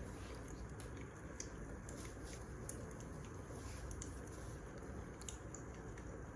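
Wood fire crackling: a steady low rush of burning logs with irregular small pops and snaps.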